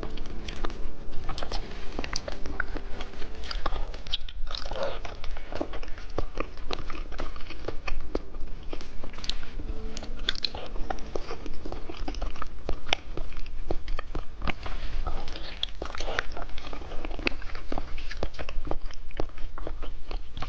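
Close-miked mouth sounds of candy being bitten and chewed: a dense, irregular run of wet clicks and small crunches.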